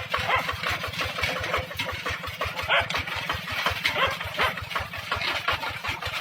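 Tractor engine running steadily with an even, rapid chugging beat.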